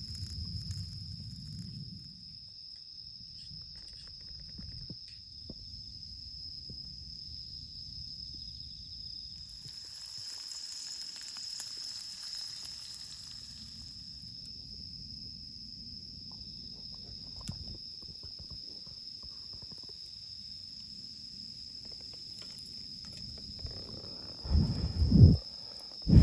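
Insects, likely crickets, singing steadily in one high, even pitch over a low background rumble. Near the end, two loud, short low rumbles break in.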